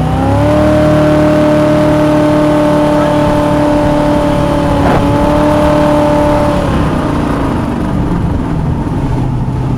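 Homemade jet boat's 350 V8 engine revving up, then holding a steady high pitch under way before easing off about seven seconds in.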